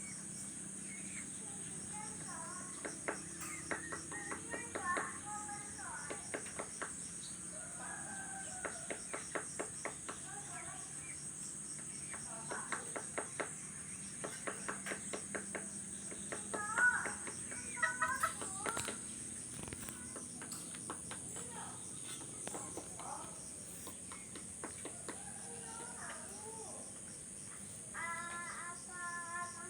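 Backyard ambience: a steady high insect drone of crickets, with chickens calling and a rooster crowing near the end. Several quick runs of short taps come in the first half, plausibly the woodpecker pecking at the coconut palm trunk.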